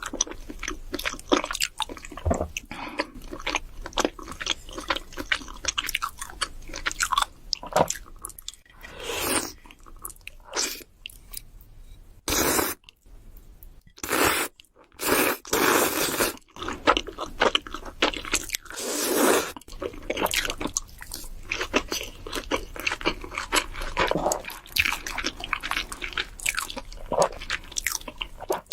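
A person biting and chewing crunchy food close to the microphone, with many quick crunches throughout. A few longer, louder noisy sounds come near the middle.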